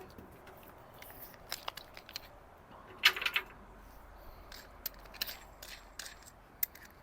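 Scattered light clicks and knocks of tools and metal being handled, with a short clattering burst about three seconds in.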